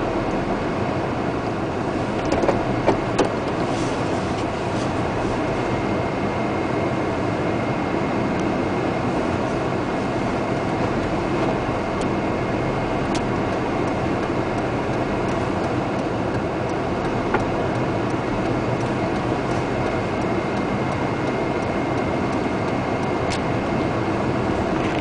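Steady rumbling noise of a vehicle driving in a storm, tyre and rain noise heard from inside, with a few sharp clicks.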